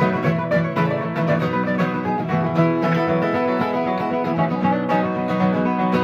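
Acoustic guitars playing an instrumental break in a country song: a picked lead solo over a steady strummed rhythm.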